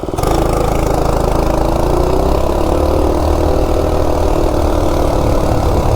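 Coleman 196cc single-cylinder engine on a minibike at full throttle from a standing start, governor removed. The engine note comes in sharply just after the start, climbs over the first couple of seconds, then holds at a steady high pitch as the bike accelerates toward 30 mph.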